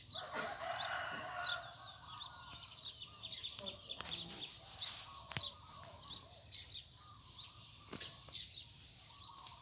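Small birds chirping repeatedly in short high notes over steady outdoor background noise, with a voice in the first couple of seconds and a few sharp clicks near the middle.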